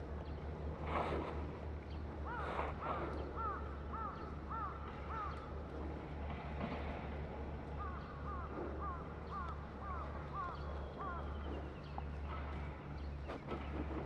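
A bird calling in two runs of quick, evenly repeated arched notes, with a few sharp clicks, over a steady low rumble.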